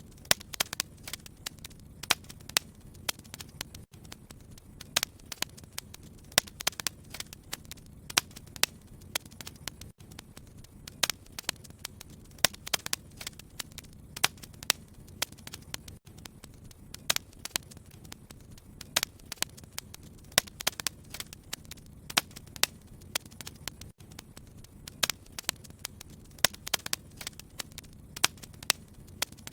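Wood fire crackling in a fireplace: irregular sharp pops and snaps, sometimes several a second, over a steady low hum.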